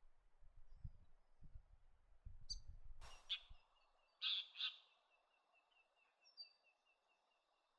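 Wild birds calling: two short loud calls about four seconds in, then a bird repeating a short high note about four or five times a second. A low rumble underlies the first half.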